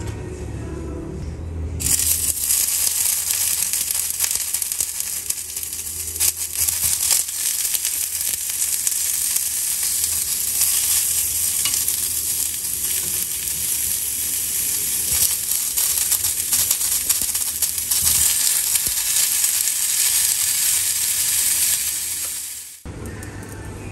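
Sausages sizzling in a small square frying pan on a gas hob, with scattered clicks of metal tongs against the pan. The sizzle starts abruptly about two seconds in and cuts off sharply near the end.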